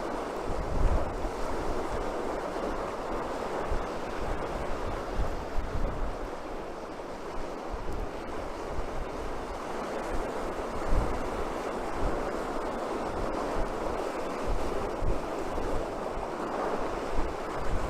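Atlantic surf breaking on the shore in a steady rush, with wind gusting across the microphone in irregular low rumbles.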